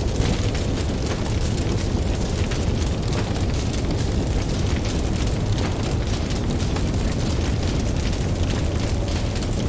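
A campfire crackling with many small, irregular pops, over a steady low rumble of ocean surf.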